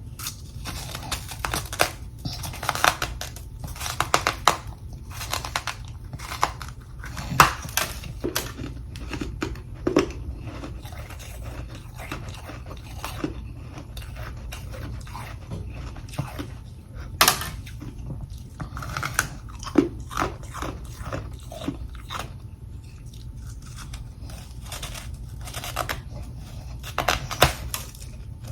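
A person biting and chewing chunks of humidifier freezer frost: irregular crisp crunches, some sharper and louder than others, over a steady low hum.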